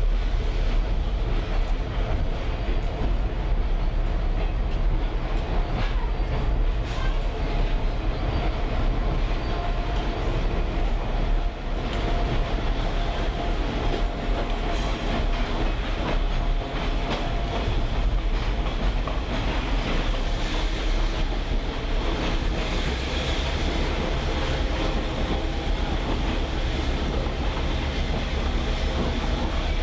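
Railroad caboose rolling along the track: a steady rumble and rattle of the car and its wheels on the rails, with a few faint clicks.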